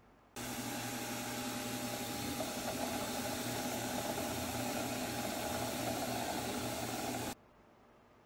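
A small electric workshop machine of the kind used to clean and polish a freshly cast metal piece, running steadily with a low hum under a strong, even hiss. It cuts in abruptly about half a second in and cuts off abruptly about seven seconds in.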